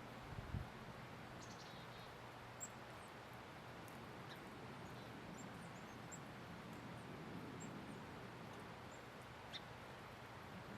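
Songbirds calling faintly: scattered short, high chirps every second or so over a steady background hiss, with a soft knock about half a second in.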